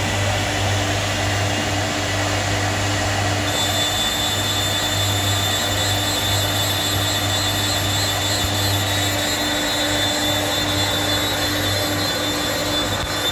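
CNC router running steadily, its spindle cutting 10 mm PVC sheet; a high whine joins about three and a half seconds in.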